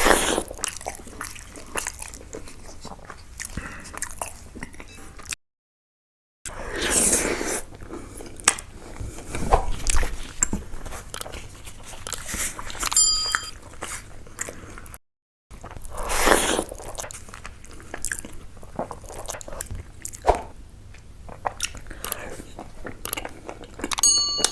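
Close-miked chewing, biting and crunching of a person eating fish curry with rice, with many short smacks and crunches, broken twice by a sudden second of silence.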